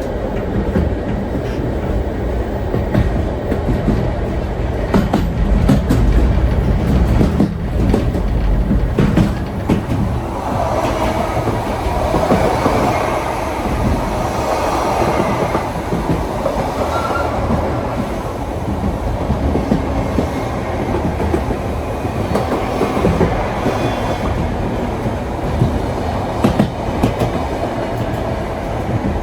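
Heritage steam tram carriages running along the track: a steady low rumble, with clicks of the wheels over the rail joints. From about ten seconds in, a rougher, higher grinding noise from the wheels on the rails joins the rumble.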